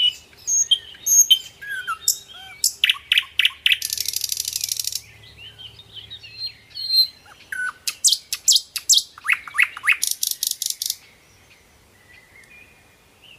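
Birds chirping and singing: quick high whistled notes and chirps, with a fast buzzing trill about four seconds in and another about ten seconds in, then only faint chirps near the end.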